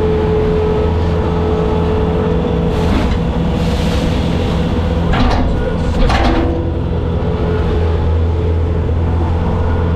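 Bobcat skid steer's diesel engine running steadily with a constant whine over it, and short clattering bursts about three, five and six seconds in.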